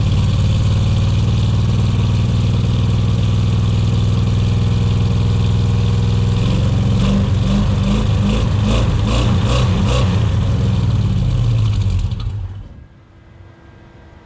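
Carbureted 350 V8 in a Chevy S10 running at idle a bit rough, as an engine not yet fully tuned. Its note changes and turns uneven about halfway through. The engine is shut off about twelve seconds in and dies away.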